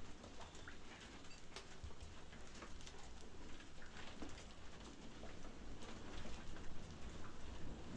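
Rain falling steadily, with scattered drops pattering.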